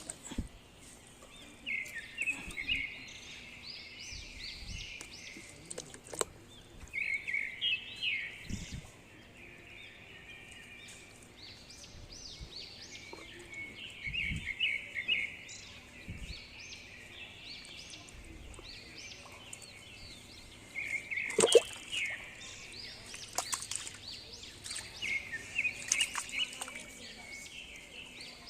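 Birds chirping in repeated bouts of quick, high notes every few seconds, with a sharp knock about two-thirds of the way through.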